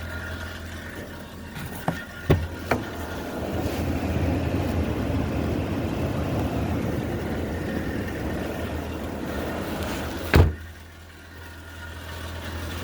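2006 Nissan X-Trail's four-cylinder engine idling just after a cold start, with the heater blower running for the defrosters: a few clicks early on, then a rush of air from about three and a half seconds in. A loud thump comes near the end, after which the air rush is much quieter.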